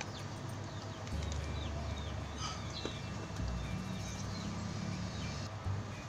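Quiet outdoor background with a low steady hum and a few short, falling chirps from small birds.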